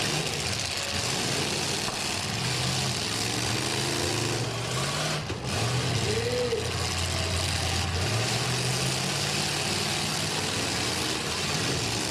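Engines of eight-cylinder demolition derby cars running and revving, their pitch rising and falling over a steady mixed engine noise.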